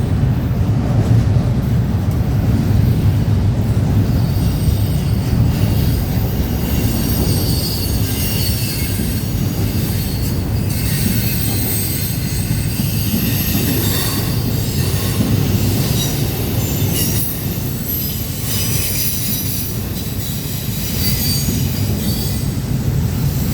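Freight train cars rolling past: a steady low rumble of wheels on rail, with thin high-pitched wheel squeals coming and going over it.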